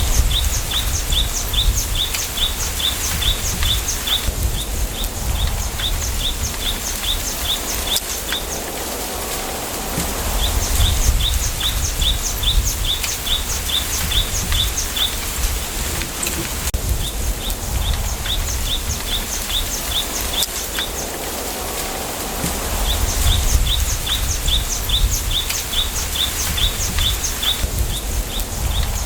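Wind through a bamboo grove: a steady rustling hiss of leaves over a low wind rumble that swells in gusts. A small bird repeats a rapid series of high chirps, about six a second, in bouts of a few seconds, several times over.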